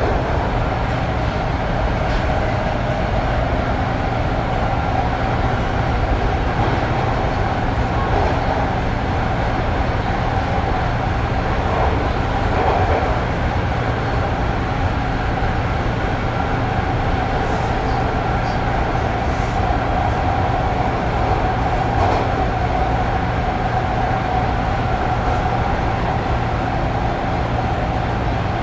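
Toronto subway train on Line 2 (Bloor-Danforth) running between stations, heard inside the car: a steady low rumble of wheels on track with a constant mid-pitched whine over it.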